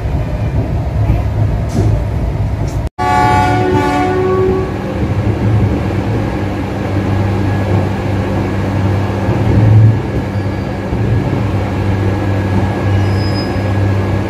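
Steady low hum and rumble of the train, heard from inside the coach. About three seconds in, a locomotive horn sounds briefly and fades.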